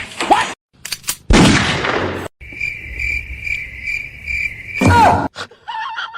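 Cricket-like chirping: a steady high trill pulsing about twice a second for a couple of seconds in the middle, after a loud burst of rushing noise, with short squeaky chirps near the end.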